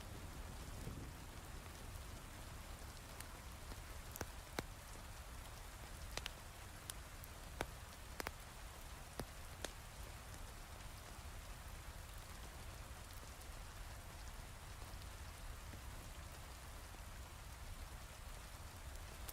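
Heavy rain falling steadily, with a handful of sharp crackling pops from a wood fire between about four and ten seconds in.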